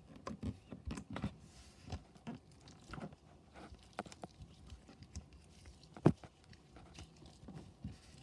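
Hands squeezing and working a tub of Flarp noise putty, making small irregular sticky clicks and squelches, with one louder pop about six seconds in.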